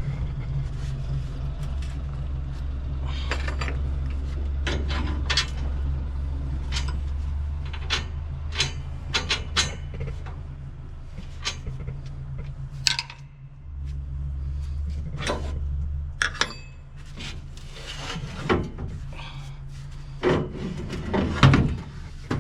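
Scattered knocks and clanks, like handling tools or parts, over a steady low rumble that drops out briefly a little past the middle and again near the end.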